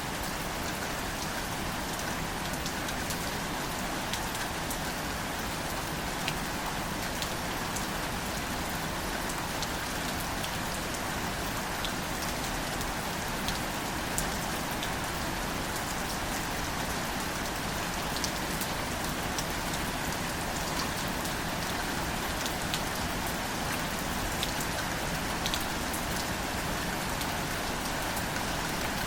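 Steady, gentle rain falling on wildflowers and their leaves, with individual drops ticking out clearly over the even patter.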